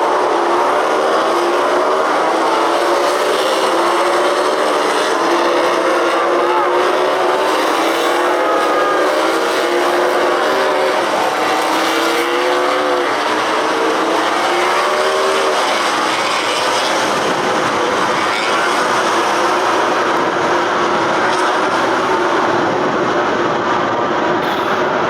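MotoGP racing motorcycles' four-cylinder engines running at race speed, several at once, their overlapping notes rising and falling as the bikes accelerate, shift and brake. For about the last third the notes blend into a steady, even noise.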